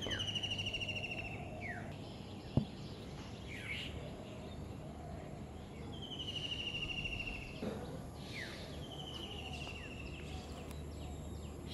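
Birds singing at dawn: a rapid high trill repeated three times, each about a second and a half long, with short falling chirps in between. A single click about two and a half seconds in, over a steady low hum.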